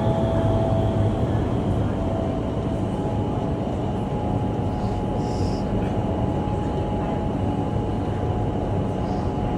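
Vertical wind tunnel of an indoor skydiving facility: its fans and rushing airflow make a steady loud rush with a faint whine.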